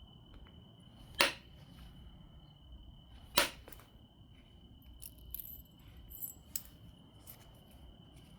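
Two sharp percussion strikes of a knapping billet on an obsidian biface, about two seconds apart, followed by a run of lighter clicks and ticks from the stone. A steady cricket trill continues throughout.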